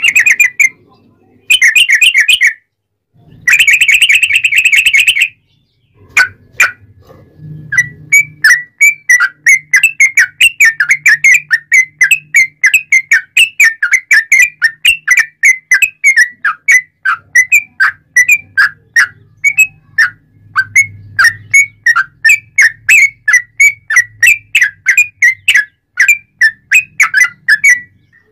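Yellow-vented bulbul (trucukan) singing loudly: three short warbled phrases, then from about six seconds a long, fast run of sharp repeated notes, about three a second.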